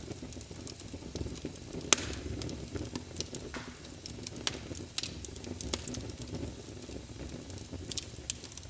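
Wood fire burning in a fireplace: a steady low rumble of flames with irregular crackles and pops, the loudest pop about two seconds in.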